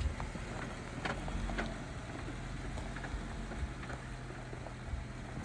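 Jeep's engine running low and steady while scattered sharp clicks and knocks sound over it, typical of rocks and the vehicle's body and suspension working on a rough trail.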